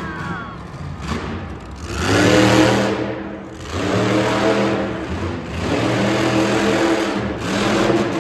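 Monster truck engine revving hard in three long bursts, its pitch climbing and holding in each before it drops back.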